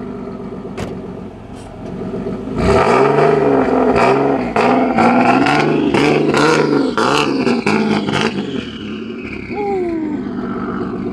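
Single-turbo Nissan 370Z's V6 engine revved in quick repeated throttle blips for several seconds, starting about two seconds in, as the low car is eased up onto a tow truck's flatbed, with sharp clicks among the blips and a falling whine near the end.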